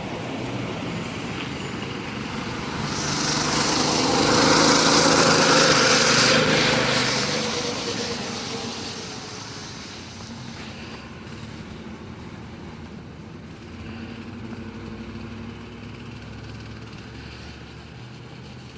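Baja Warrior mini bike's single-cylinder engine, with its governor removed, riding past: it swells to its loudest about five seconds in, fades over the next few seconds, and runs on more quietly after that.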